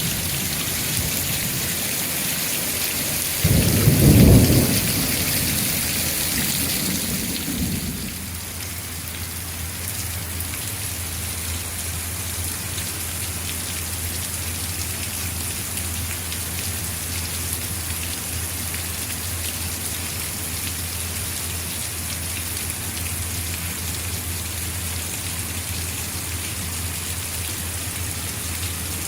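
Rain falling steadily, with a loud clap of thunder about three and a half seconds in that rumbles away over the next few seconds.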